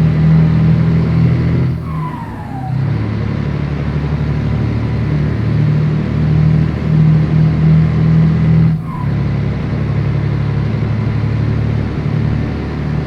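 Scania 113 truck's diesel engine pulling steadily, with two short breaks in its drone, about two seconds in and again near nine seconds, each with a brief falling whistle, as the throttle is lifted for gear changes.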